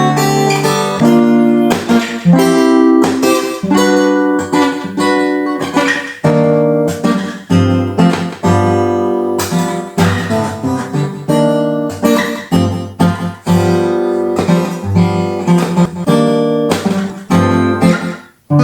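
Acoustic guitar played alone, strummed and picked chords ringing one after another, with a brief gap near the end before a fresh chord is struck.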